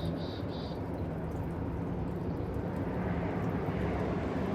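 Steady low outdoor rumble with a faint hum, and a bird giving three short high chirps in the first second.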